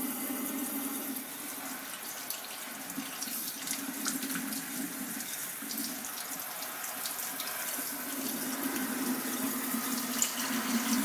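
Tap water running steadily into a sink, with small irregular splashes.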